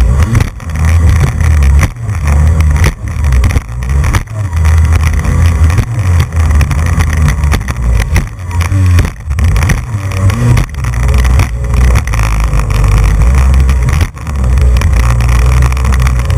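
Jet ski running at speed on open water: its engine drone and water noise are mixed with heavy wind rumble on the camera microphone. The loudness keeps dropping out briefly and coming back, with a few rises and falls in engine pitch.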